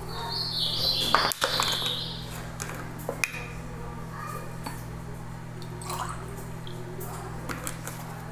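Liquid being poured for about two seconds near the start, over a steady low electrical hum, then a few small clicks of handling.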